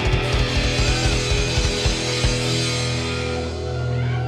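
Live heavy rock band playing a burst of rapid drum hits and crashing cymbals under distorted guitar, which stops about two seconds in and leaves a held chord ringing out.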